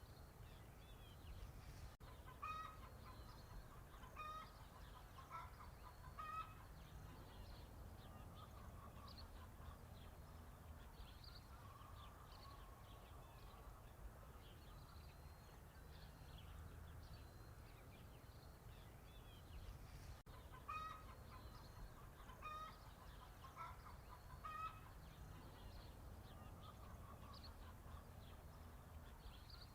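Chickens clucking faintly in two runs of short calls, over a steady low farmyard background.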